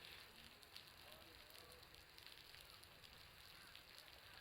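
Faint, irregular crackle of water drops falling from a building's roof and pattering below, a patter that sounds much like a crackling bonfire.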